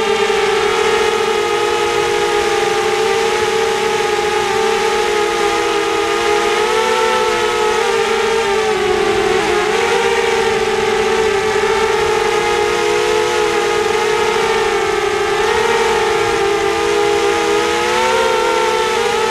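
Brushless motors and 5-inch props of a 250-size FPV racing quadcopter whining in flight, several close tones wavering up and down together with the throttle, with a brief dip about halfway through.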